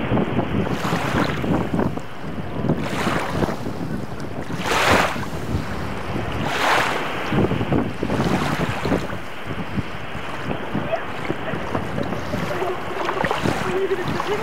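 Wind buffeting the microphone over open sea water, with waves lapping and splashing. A few louder splashing surges come through, the strongest about five seconds in.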